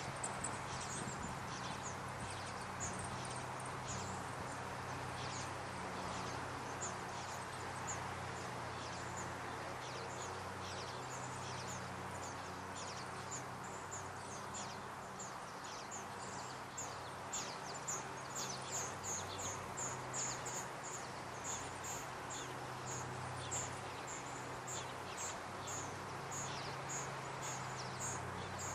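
Small bird's short, very high chirps, repeated in quick series of about three a second, loudest and thickest about two-thirds of the way through, over a steady outdoor hiss and low hum.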